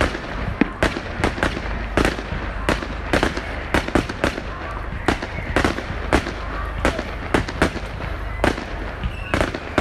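Fireworks display going off: a rapid, irregular barrage of sharp bangs and crackles, several a second, over a low rumble.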